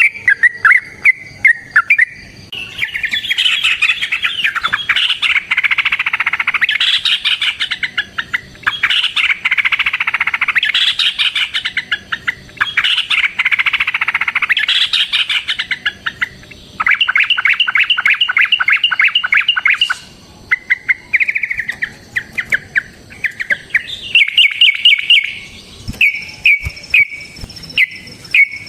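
Yellow-vented bulbul (trucukan) singing long, rapid, chattering phrases a few seconds each, with a fast even trill about two-thirds of the way through, then shorter bursts of repeated notes.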